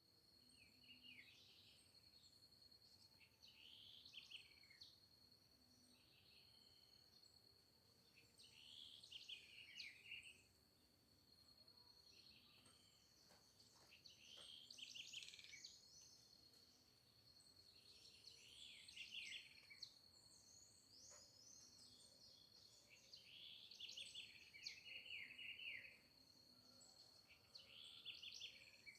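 Faint birdsong: a songbird repeats a short, quick warbled phrase about every four to five seconds, over a steady high-pitched tone.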